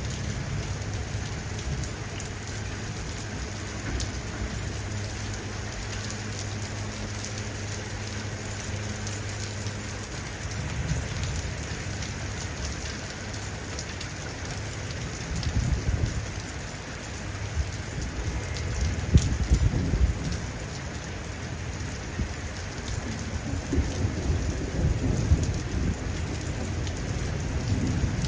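Steady rain falling, with low rumbles of thunder that come and go, growing stronger from about halfway on.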